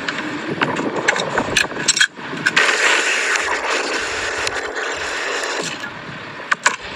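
Mechanical scraping with scattered sharp clicks, like hand tools at work.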